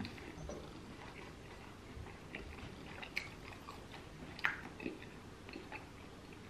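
A person chewing food close to the microphone, with a few sharp clicks.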